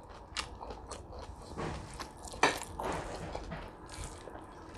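Close-up eating noises: chewing and small wet mouth clicks, with one louder, sharper sound about two and a half seconds in.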